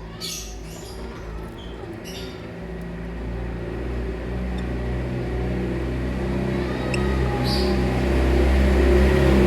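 A few short lovebird chirps in the first two seconds, then a steady low mechanical hum that grows steadily louder.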